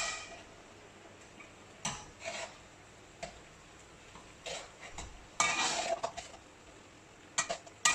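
A spoon stirring macaroni in a metal pot, with intermittent scrapes and clinks against the pot, the densest run a little past the middle.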